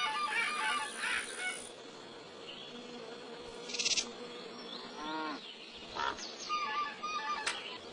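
Assorted farm animal calls, several short calls one after another.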